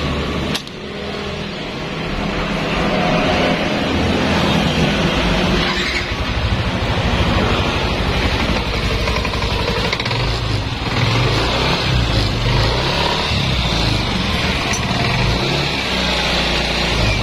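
Yamaha NMAX scooter engine running steadily, with a short click and a brief drop in level about half a second in.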